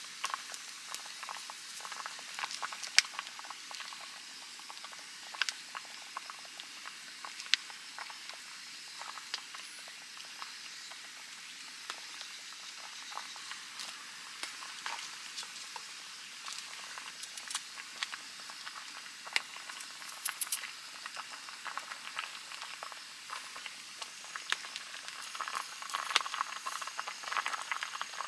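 Pot of spicy fish stew (maeuntang) bubbling at a boil: a steady hiss with many small irregular pops, getting busier near the end.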